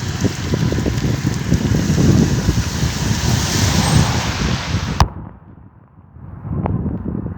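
Heavy rain hissing with wind buffeting the microphone in low gusts. About five seconds in it cuts off at a sharp click, giving way to a quieter, duller rumble of storm noise with a single crack.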